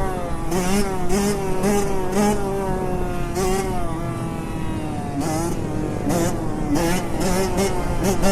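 Small motorcycle engine revving, its pitch climbing and dropping again and again as it runs up and shifts, with a longer, lower stretch about halfway through before it picks up again.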